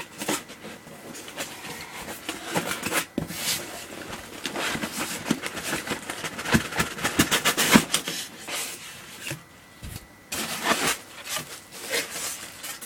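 Packaging being handled: an irregular run of rustling, scraping and light knocks as a fog machine is unpacked from its box.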